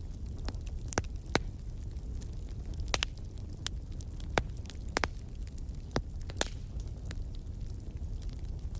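Wood fire in a fireplace crackling: a steady low rumble of flames with sharp irregular pops and snaps, about a dozen in these few seconds.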